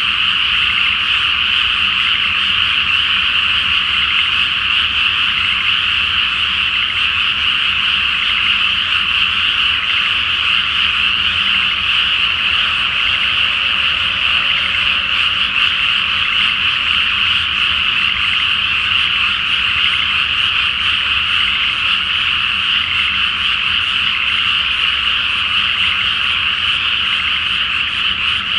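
A chorus of many frogs calling at once in a flooded rice paddy. It is a dense, steady din with no breaks, pitched in the upper-middle range.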